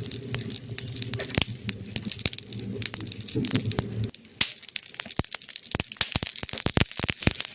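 Campfire crackling: burning wood giving frequent sharp pops and snaps over a steady hiss. A low hum underneath cuts off suddenly about halfway through.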